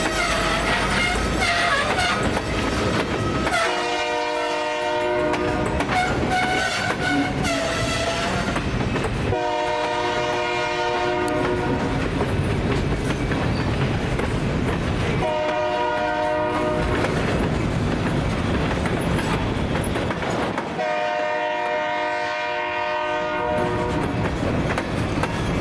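Diesel freight locomotive sounding its air horn in the long, long, short, long pattern of a grade-crossing signal, over the steady rumble of the engine and the clatter of wheels on rail joints. A wavering squeal sounds in the first couple of seconds.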